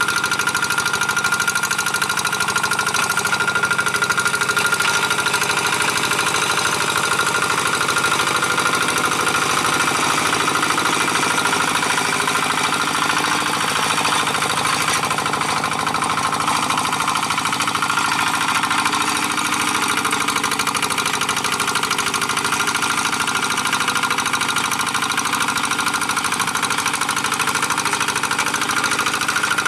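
G1000 two-wheel hand tractor's single-cylinder diesel engine running steadily, with a fast even knock, while it pulls a moldboard plow through dry paddy soil.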